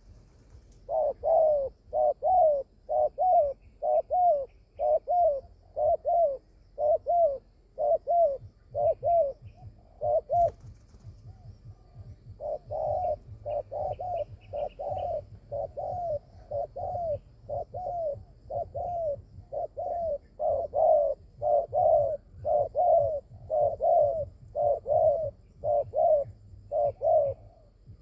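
Spotted dove cooing: a long series of short, arched coos, about one and a half a second. The series pauses for about two seconds near the middle, then resumes.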